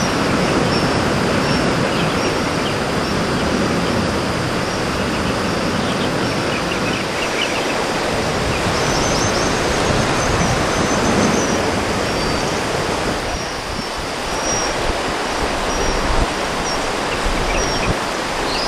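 Steady rushing outdoor noise with faint, short bird chirps now and then over it.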